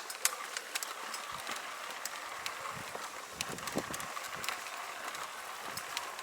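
Bicycle being ridden along a rough mountain trail: a steady hiss of tyres and air, with scattered clicks and rattles from the bike and a few soft thumps.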